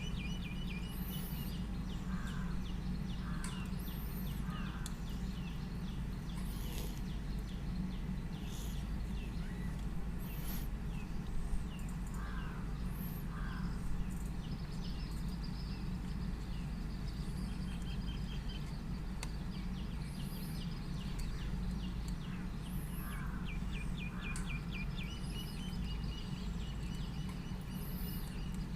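Birds chirping and calling again and again in the background over a steady low hum, with a couple of sharp clicks around the middle.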